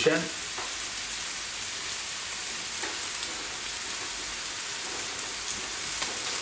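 Steady sizzle of potato fries frying in a pan of hot seed oil, together with hamburgers cooking on a grill pan.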